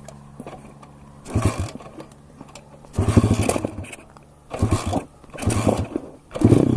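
SSR 160 pit bike's single-cylinder four-stroke engine being restarted after a stall: several short cranking bursts that don't catch, then it fires near the end and runs with the throttle blipped.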